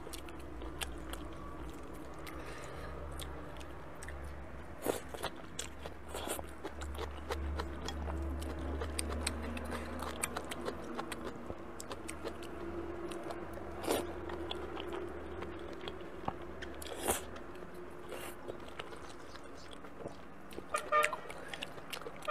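Close-up eating sounds of someone chewing and biting spicy chicken feet and sticky wide potato noodles: wet chewing with crunching and frequent sharp clicks. A brief pitched sound comes near the end.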